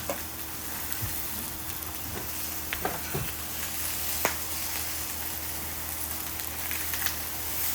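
Black pork and abalone sizzling on a hot cast-iron pot-lid griddle, a steady hiss with a few sharp ticks around the middle.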